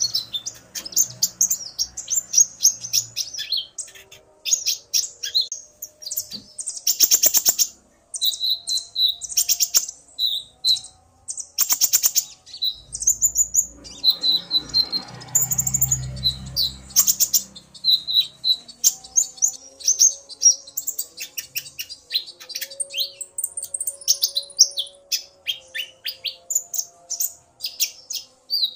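Kolibri ninja (konin) sunbirds calling back and forth, a male singing excitedly to a female's calls: rapid, high-pitched chirps and twittering trills with only brief pauses, and a few sharp rattling trills.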